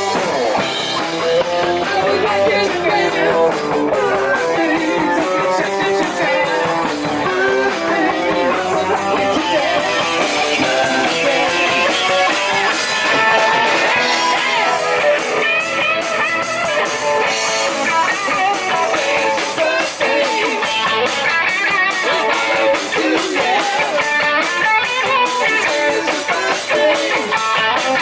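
Live band playing rock music, an electric guitar taking the lead over a drum kit.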